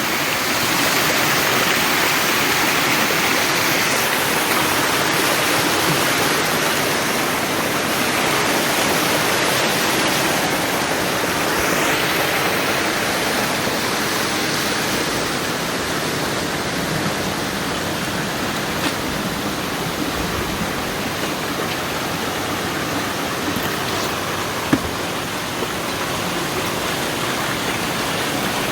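Steady rush of river water running and falling over rocks, with a couple of brief faint clicks.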